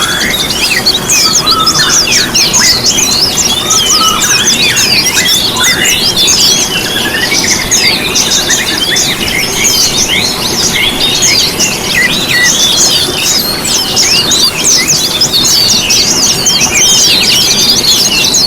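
Dense chorus of small songbirds chirping and twittering rapidly and without pause, many short high notes sweeping up and down and overlapping, over a steady background hiss.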